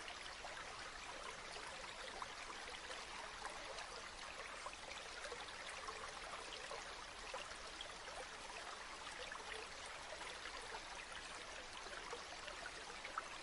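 A river or stream flowing steadily, a continuous rush of water with small trickling splashes scattered through it.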